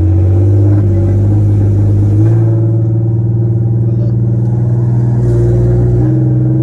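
Nissan VR30DDTT twin-turbo V6 running with no exhaust fitted, a loud, steady drone under way that steps up a little in pitch about two seconds in.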